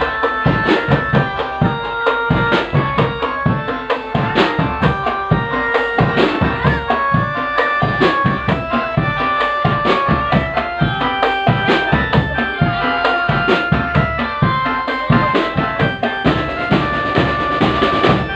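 Drum band music: a steady, driving drum beat under a melody of held notes.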